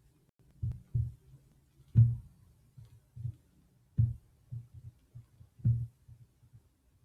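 Dull, irregular knocks, about eight in seven seconds and the loudest about two seconds in: a stylus tapping and striking the drawing tablet during quick strokes.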